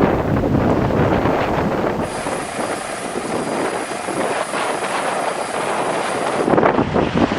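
Storm wind on the microphone and rough sea, a steady noise that changes character about two seconds in and again near the end.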